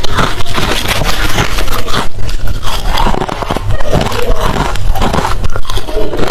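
Close-miked biting and chewing of hard refrozen crushed ice: a dense, continuous run of sharp crunches and crackles.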